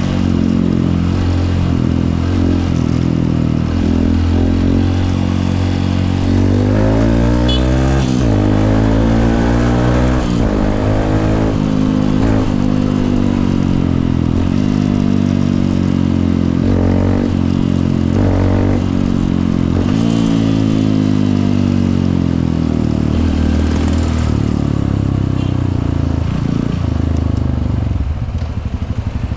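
Honda CRF150L single-cylinder four-stroke motorcycle engine running under way, its pitch rising and dropping repeatedly as it accelerates and shifts through gears. Near the end it eases off and gets quieter.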